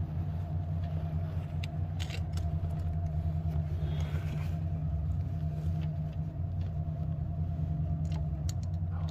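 A steady low hum, with a few light clicks and taps of metal motorcycle parts being handled while a footpeg bracket is lined up.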